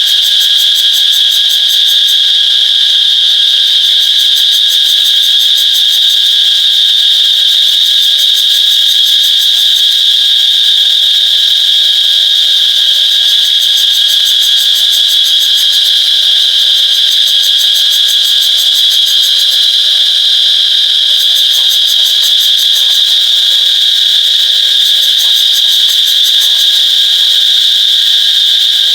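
Cicadas singing: a loud, steady, high-pitched buzz that does not let up.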